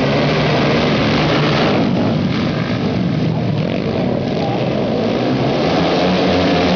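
Flat-track racing motorcycle engines running hard, a loud, steady engine drone with a wavering pitch.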